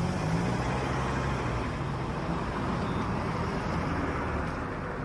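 Steady city traffic noise: a continuous wash of passing cars with a low rumble, which sounds like sea surf.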